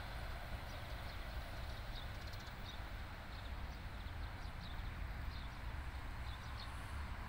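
Small birds giving short, high chirps that fall in pitch, a few every second or so, over a steady low rumble as a passenger train fades into the distance.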